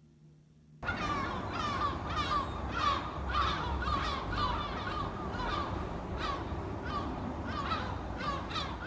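Seagulls calling, a quick run of short overlapping cries over a steady low background rush. The calls start abruptly about a second in.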